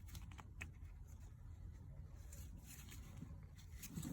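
Quiet background: a steady low hum with a few faint light clicks and ticks.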